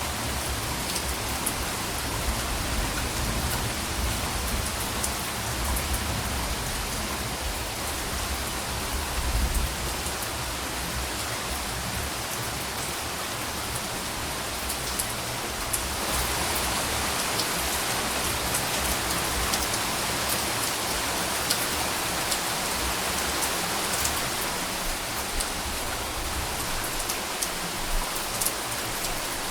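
Steady rain falling, with many fine drop ticks over a dense hiss. A low rumble swells around nine seconds in, and the rain grows heavier from about sixteen seconds.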